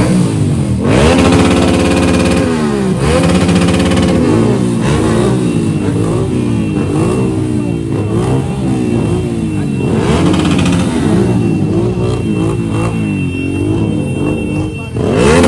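Motorcycle engines revving up and down over and over, several at once.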